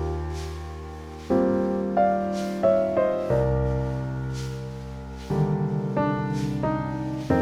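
Slow, gentle piano music: chords and single notes struck every second or so, each left to ring and fade.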